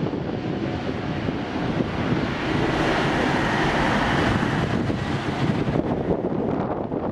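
Jet airliner noise: a steady rushing of engines and airflow that swells with a faint whine in the middle, then eases.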